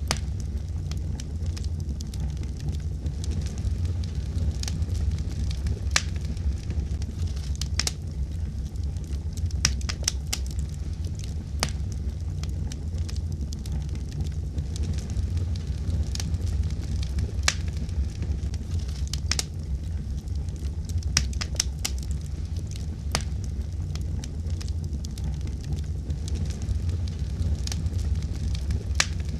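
Wood fire crackling in a fireplace: irregular pops and snaps over a steady low rumble of the flames.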